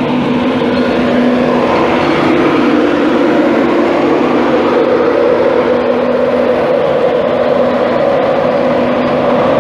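An InterCity 225 train with a Class 91 electric locomotive standing at the platform before departure: a loud, steady whirr with a low held hum.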